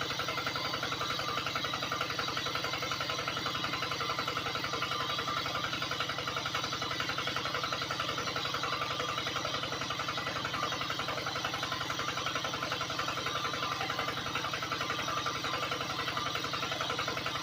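Small motor running steadily with a fast, even buzz.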